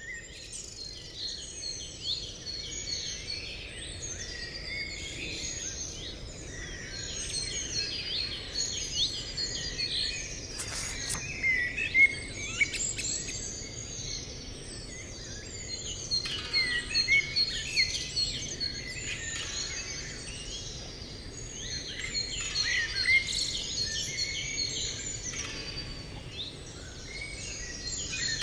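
Many birds chirping and singing together, a constant overlapping chorus of short calls over a steady background hiss.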